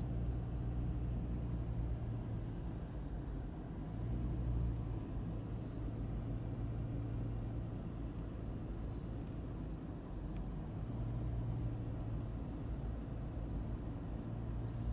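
Vehicle engine running with a steady low hum as the vehicle rolls slowly forward, swelling slightly a couple of times.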